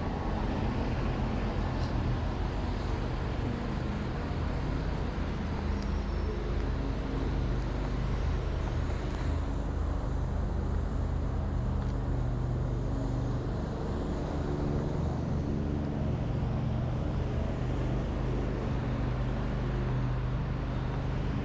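Steady city traffic noise, with a vehicle engine running nearby as a continuous low hum.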